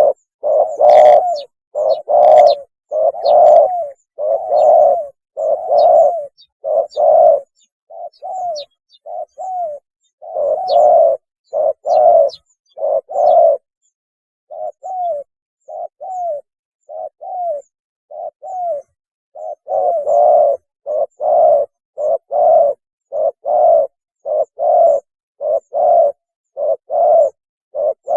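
Spotted dove cooing over and over, a run of short low coos about one every second or less, with clean silence between notes. The coos grow softer for a while in the middle and then strong again. This is the tekukur's mating call as used for luring.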